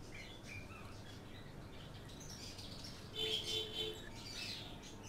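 Faint bird chirps over a low background hum: a few short calls, then a clearer call a little past three seconds in.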